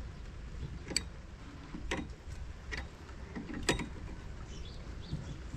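Sharp metallic clicks from hand tools and bolts on the corn head's steel, about four of them roughly a second apart, over a low steady rumble.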